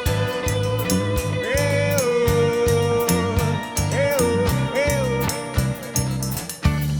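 Rock band playing an instrumental passage: a lead guitar holds a long note and bends it up and back several times over bass and drums.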